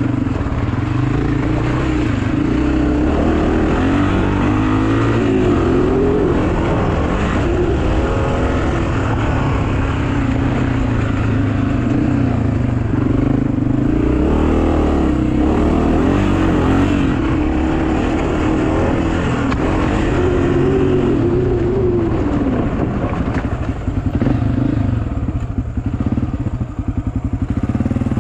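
Small pit bike engine running hard, its pitch rising and falling again and again as the throttle is opened and closed, with a few uneven dips in the engine note near the end.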